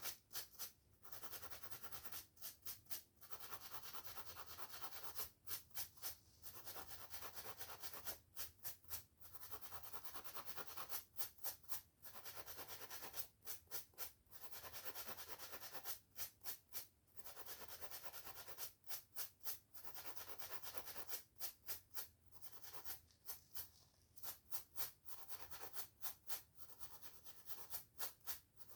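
Brushing and scratching of hair and scalp: stretches of steady rubbing, each broken by a quick run of three or four separate strokes, repeating every few seconds.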